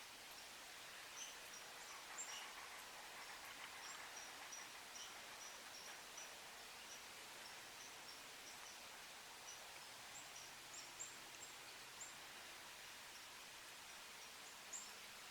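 Faint outdoor ambience: a steady hiss with many short, high bird chips scattered throughout.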